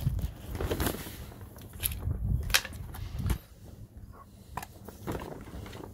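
Handling noise: several sharp clicks and light knocks, the sharpest about two and a half seconds in, over low rumbling bumps that die down after about three and a half seconds.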